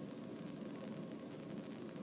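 Robinson R22 helicopter in flight: a steady drone of engine and rotor heard from inside the cabin.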